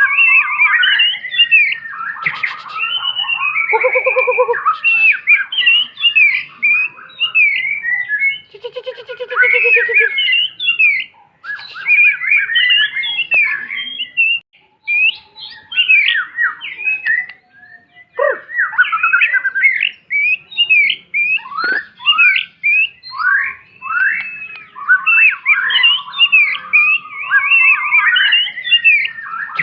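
White-rumped shama singing a long, varied song of rapid whistles and chattering notes, broken by a few brief pauses and by a couple of lower, buzzy phrases.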